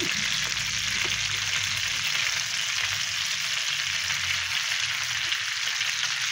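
Beef burger patties sizzling steadily as they shallow-fry in oil in a pan over medium heat.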